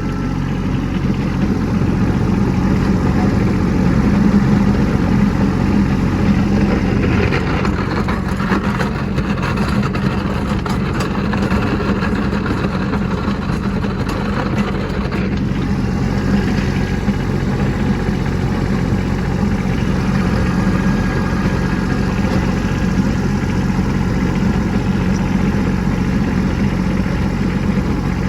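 Kubota B2601 compact tractor's three-cylinder diesel engine running steadily while plowing snow. A stretch of clattering and scraping comes in about eight seconds in and dies away about seven seconds later.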